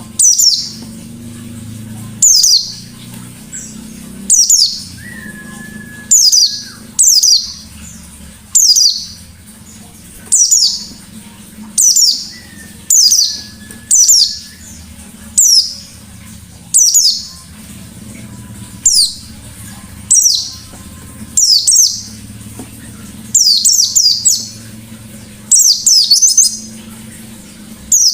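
A pleci (white-eye) singing in the sharp, rapid 'ngalas' style: short, loud, high-pitched calls repeated about once a second, each falling steeply in pitch, with two longer, lower steady whistles in the first half.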